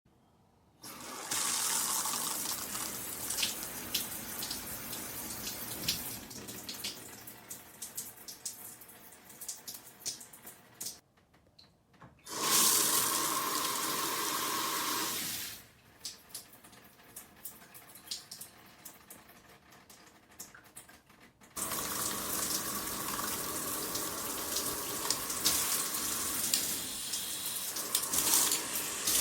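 Water spraying from a six-function shower head. It comes in several separate stretches that start and stop abruptly, with a brief silent gap about eleven seconds in and a louder spell of spray just after it.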